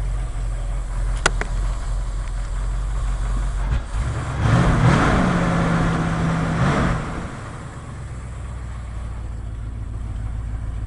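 The 1980 Ford F100's 302 two-barrel V8 idling, worn out and sounding like a diesel to its owner. About four seconds in it is revved once, held for a couple of seconds, then drops back to idle. A single sharp click comes about a second in.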